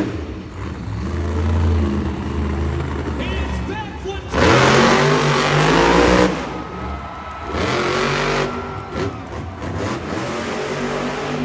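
Monster truck engine running loud and revving hard, one long rising rev about four seconds in and a shorter one near eight seconds, with lower running between.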